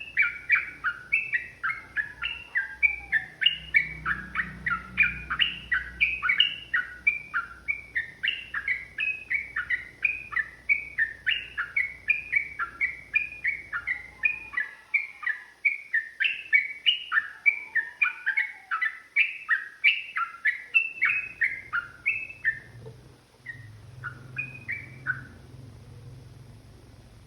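Yellow-vented bulbul singing a long, rapid run of short bubbly chirps, several notes a second, which thins out near the end and then stops.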